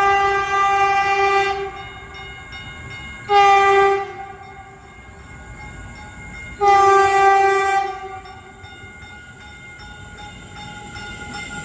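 Caltrain Stadler electric multiple unit sounding its horn as it approaches the station: three blasts, a long one, a short one about three seconds later, then a longer one about six and a half seconds in. The train runs between the blasts.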